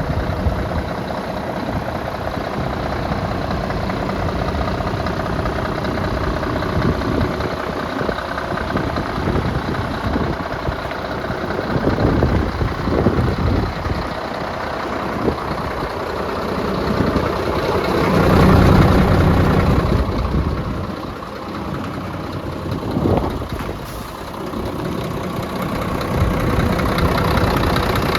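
Scania P380 truck's diesel engine idling steadily, growing louder for a couple of seconds about two-thirds of the way through.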